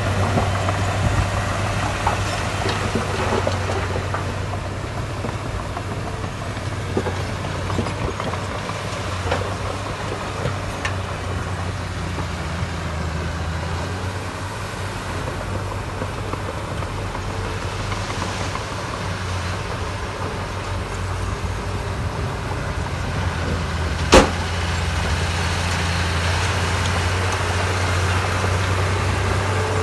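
Diesel engine of heavy construction equipment running steadily, with a single sharp clank about 24 seconds in.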